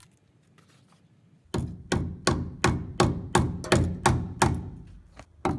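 Hammer repeatedly striking a rusty steel truck frame rail, about three sharp taps a second starting after a short quiet, in a rust check of a 1985 Toyota pickup frame. The section holds under the blows rather than the hammer breaking through.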